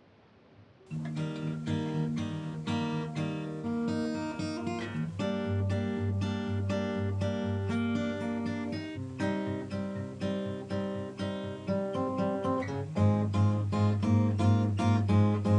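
Acoustic guitar playing a song's instrumental intro: a steady pattern of strummed chords that starts about a second in and gets louder near the end.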